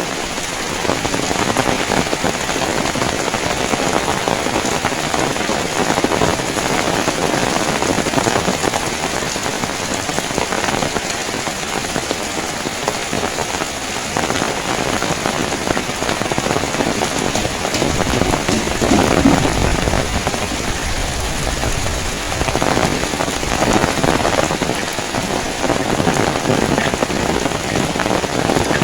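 Heavy rain falling steadily in a dense hiss, with a deeper rumble swelling briefly about two-thirds of the way through.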